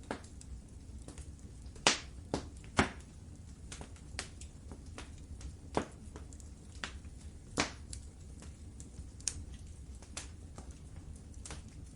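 Wood fire crackling in a fireplace: irregular sharp pops and snaps over a low steady rumble, the loudest two about two and three seconds in.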